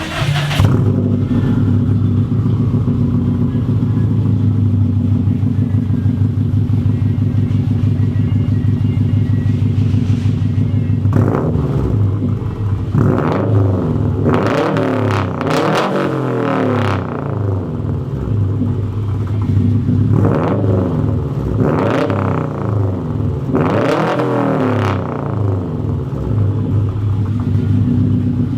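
Exhaust of a 2015 Subaru WRX STI's turbocharged flat-four, through a Cobb turbo-back system with the mufflers deleted, idling steadily and loudly. About ten seconds in it gets a run of quick throttle blips, revs rising and falling several times in a row, then three more single blips spaced a couple of seconds apart before it settles back to idle.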